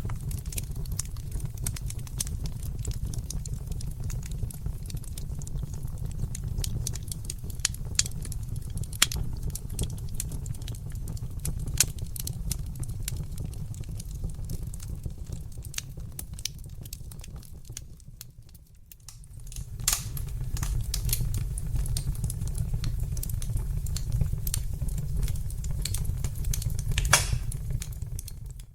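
Wood fire crackling: irregular sharp pops and snaps over a steady low rumble of burning. The sound dips briefly about two-thirds through, then comes back.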